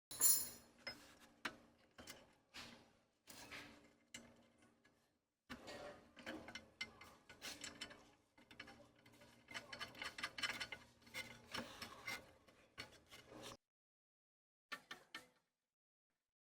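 Rubbing and scraping in irregular strokes, like a hand tool worked against a surface, stopping about four-fifths of the way through with one more short burst after.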